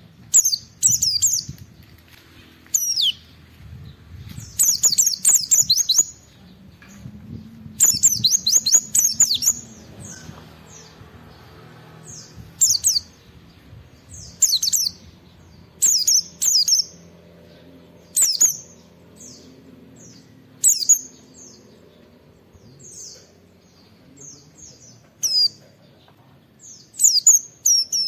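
White-eye (pleci) singing: short, high, rapid chirping phrases every second or two, with two longer runs of fast notes lasting over a second each.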